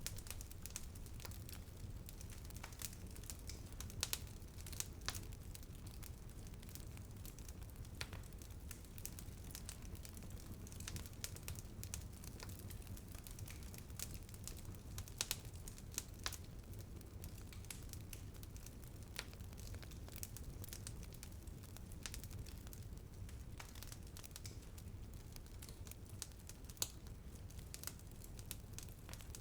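Wood fire in a fireplace crackling, with irregular sharp pops and snaps, a few louder ones standing out, over a steady low rumble.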